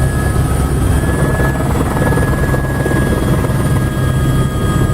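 Helicopter running steadily: a loud, fast low beat from the rotor under several steady high-pitched turbine whines.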